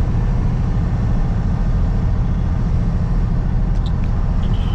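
Steady road and engine rumble inside a vehicle's cabin at highway speed of about 60 mph. A few faint ticks come near the end.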